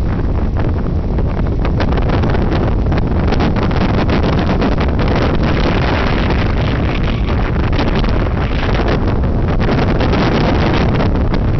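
Moving passenger train heard from an open window or door: a loud, steady low rumble with wind buffeting the microphone and frequent irregular clicks and rattles from the running gear.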